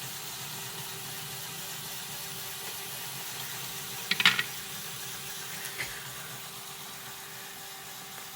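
Lego pneumatic GBC stepper module running: a steady motor hum and hiss from its pump, with a brief clatter of plastic balls about four seconds in and a single faint click near six seconds.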